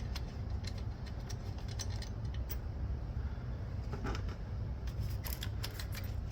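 Light, irregular metallic clicks and clinks of a spanner working a 10 mm bolt loose, over a steady low hum.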